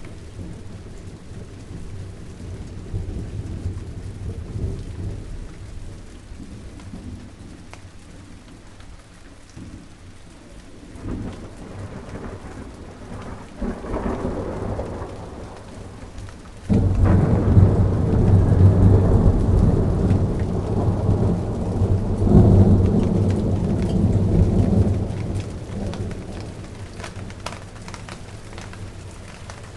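Steady rain falling, with thunder: a low rumble builds about eleven seconds in, then a sudden loud clap about seventeen seconds in rolls on for several seconds and fades away.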